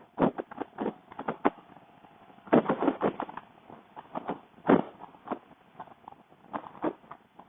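Wind buffeting and rubbing on a rider's microphone on a moving motorcycle: irregular crackling thumps, a few much louder than the rest, with the bike's own engine barely heard.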